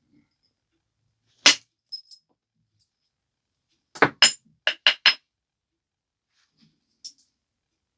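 Stone biface being knapped: sharp, clinking clicks of a tool striking the stone edge as flakes come off. One loud click comes about a second and a half in, then a couple of light ticks, a quick run of five strikes around the middle, and a faint tick near the end.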